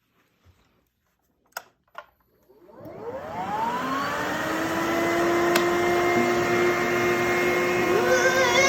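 HYLA water-filter vacuum cleaner starting up: two faint clicks, then the motor spins up with a rising whine about three seconds in and settles into a steady run.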